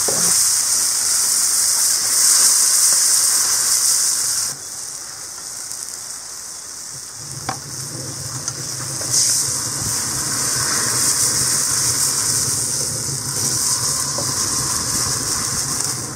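Onions and tomatoes sizzling in a steel wok over a gas burner while a spatula stirs them. The high sizzle drops away about four and a half seconds in and comes back about nine seconds in; a low steady hum sets in around seven seconds, with a single sharp tap.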